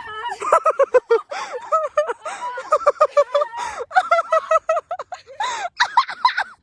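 High-pitched laughing and squealing from young women, a quick string of short, high yelps.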